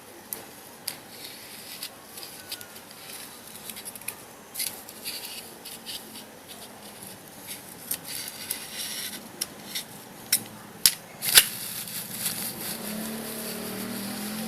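Small hand tools and parts being handled at close range: irregular clicks, taps and short scraping or cutting sounds, with two sharper clicks about eleven seconds in.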